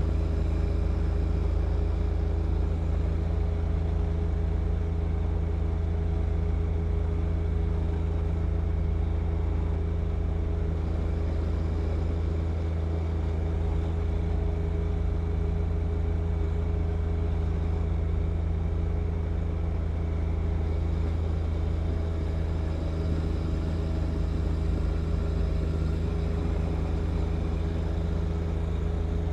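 John Deere 1025R compact tractor's three-cylinder diesel engine running at a steady speed under snow-blowing work, its pitch and loudness unchanging.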